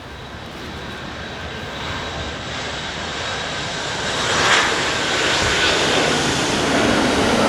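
Rushing engine noise of an aircraft flying over, growing steadily louder, with a faint whine that slowly falls in pitch.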